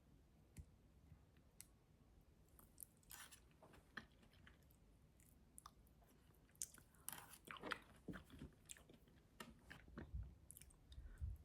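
A person eating: quiet chewing and crunching with scattered small clicks, becoming more frequent and louder after about seven seconds.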